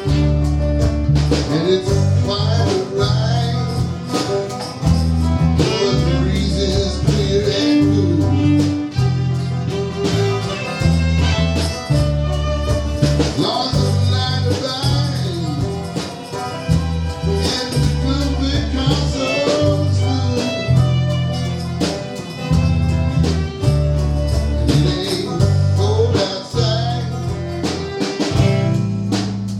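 Country band playing an instrumental passage at full volume: a stepping bass line under guitar leads.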